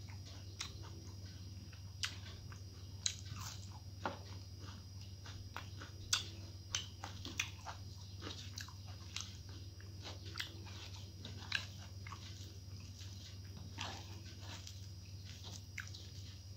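Close-miked chewing and mouth sounds of someone eating rice and vegetables by hand, with irregular sharp crunches and clicks, over a steady low hum.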